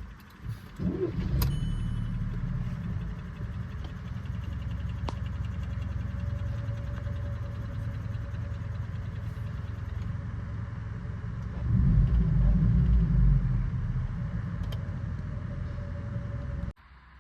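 Volkswagen Polo GT engine starting and catching with a brief rising note, then running steadily, louder for about two seconds near the middle. The sound cuts off abruptly near the end.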